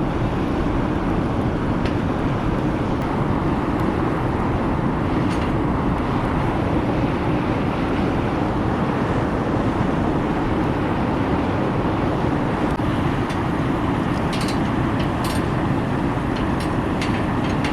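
Wood fire burning in a fire pit under a moka pot: a steady rushing sound, with a cluster of sharp crackles near the end.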